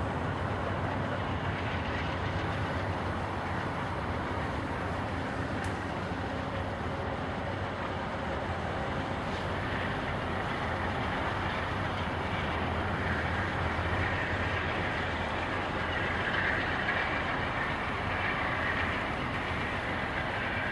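A train rolling past, its railcars running steadily over the track.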